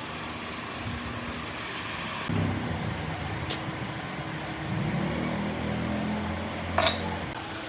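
A machine running with a steady low hum, louder from about two seconds in until shortly before the end, with a sharp click near the end.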